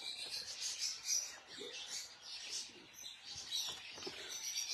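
Birds chirping, a faint busy twittering.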